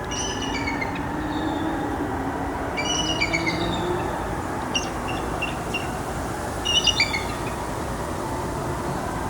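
Bald eagles calling in four bursts of high, thin, falling chirps, the last near the end the loudest, over a loud steady rumble.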